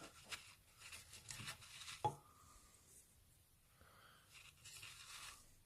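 Near silence with faint rubbing and handling noises, a small click about two seconds in and a soft rustle near the end. The grinder's motor is not running.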